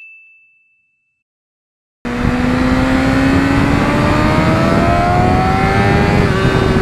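A single chime rings out and fades away, followed by about a second of silence. Then a motorcycle engine cuts in, its pitch climbing slowly as it pulls, with wind noise over it.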